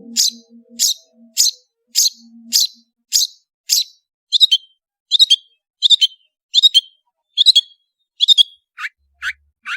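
Long-tailed shrike (cendet) calling: a sharp, high note repeated about once every two-thirds of a second, around a dozen times. Near the end the notes switch to a lower, quicker series. Faint background music fades out in the first couple of seconds.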